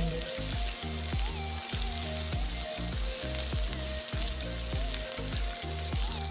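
Chopped garlic, ginger and coriander stems sizzling in hot sunflower oil as they are stirred and sautéed in a steel kadhai. Background music with a steady beat plays underneath.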